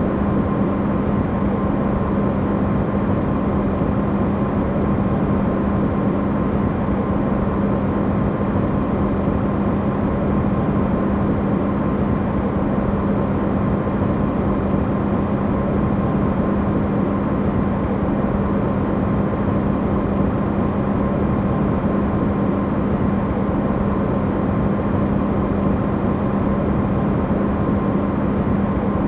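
Electrolux refrigerator running, recorded amplified: a steady low hum with a fainter higher tone over an even rushing noise, unchanging throughout.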